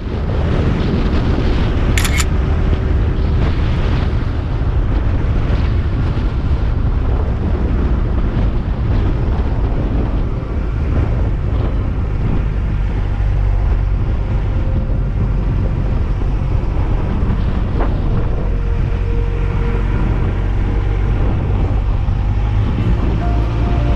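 Yamaha YZF-R1's inline-four engine running at a steady cruise, with heavy wind buffeting on the microphone.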